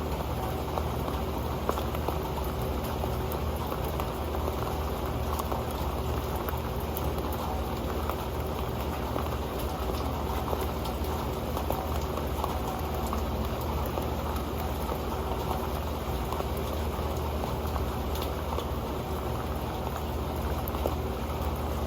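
Steady rain falling on an old pan: a dense, even patter of drops with scattered sharper single drip hits.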